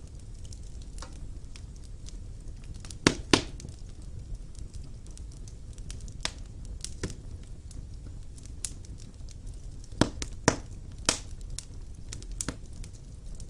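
Fire burning in a stone fireplace: a steady low rumble of flames with scattered sharp crackles and pops. The loudest come as two quick pops about three seconds in and three more around ten to eleven seconds in.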